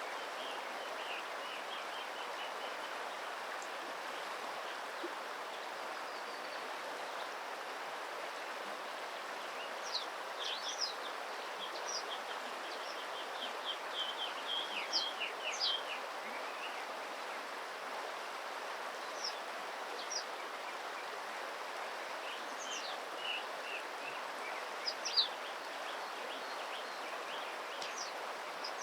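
Steady rush of flowing stream water, with short high-pitched bird chirps in scattered clusters from about a third of the way in.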